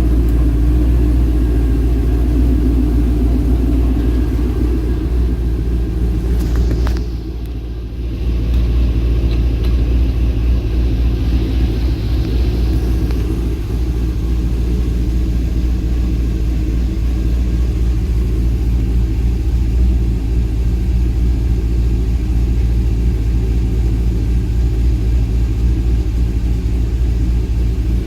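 Twin-turbocharged Pontiac GTO V8 idling with a steady low rumble; the level dips briefly about seven seconds in, then the steady idle carries on.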